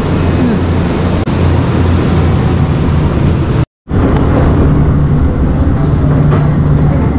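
Electric commuter train on the Nankai Kada Line: a steady low hum beside the train at the platform, then, after a sudden cut, the running noise inside the carriage as it travels.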